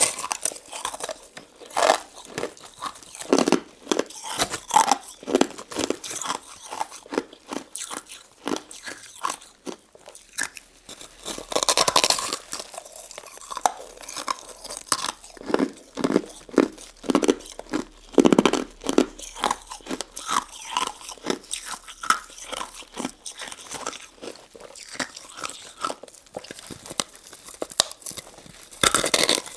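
Close-up chewing and crunching of crystal ice and citrus jelly: a quick, irregular run of crisp crunches and bites.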